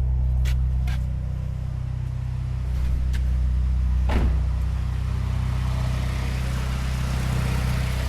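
Nissan 240SX engine idling steadily while air is bled from the cooling system, with a few light clicks.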